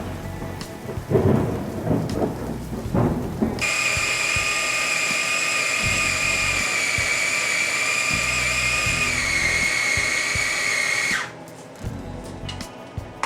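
A few knocks, then an electric food chopper's motor running steadily for about seven seconds while it chops carrots, its whine dropping slightly in pitch near the end before cutting off suddenly.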